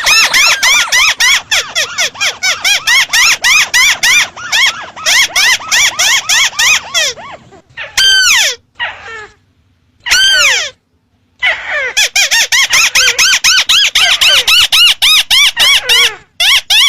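Ruddy-breasted crake (burung tikusan) calls played as a bird-trapping lure: fast runs of short squeaky arched notes, about six a second. About seven seconds in the run breaks off for a few longer falling calls, then starts again.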